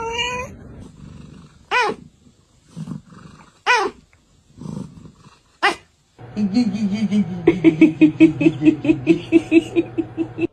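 A pet animal calling: three short calls falling in pitch, about two seconds apart, then a rapid, pulsing growl-like call of about four pulses a second that runs to the end.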